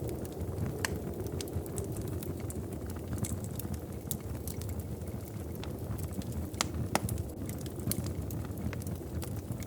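Wood fire burning in a fireplace: a steady low rumble of flame with irregular sharp crackles and pops, a few louder ones standing out.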